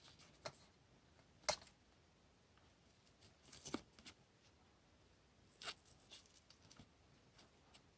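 Quiet desk crafting sounds: a few scattered light taps and short rustles of paper and stationery being handled while decorating a diary, the sharpest tap about a second and a half in.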